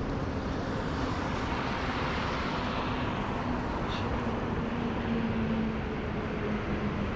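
City street traffic: a vehicle's engine and tyres passing over steady traffic noise, with a short click about four seconds in.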